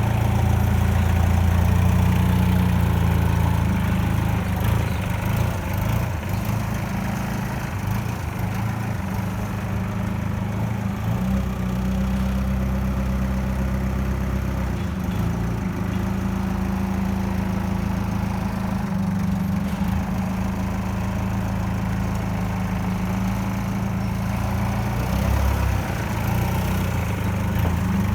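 Yanmar 4TNE92 four-cylinder diesel engine of a Yale GDP20AK forklift idling at a steady speed.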